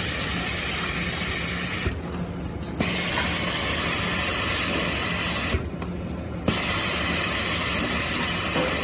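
Servo-motor glue machine running in stop-and-go cycles: a steady run of noise for about three seconds, then a short pause of under a second with clicks as it stops and restarts, twice, over a steady low hum.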